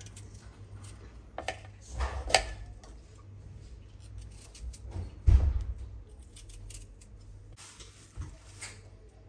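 Kitchen handling sounds: a few scattered clicks and knocks of utensils and dishes, the loudest a dull thump about five seconds in.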